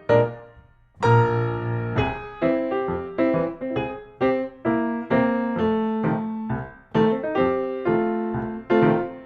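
Background piano music: single struck notes and chords, each fading away, with a brief pause about half a second in.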